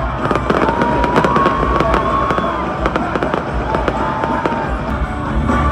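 Fireworks going off in rapid succession, a dense run of sharp bangs and crackles several times a second, with a crowd's voices underneath.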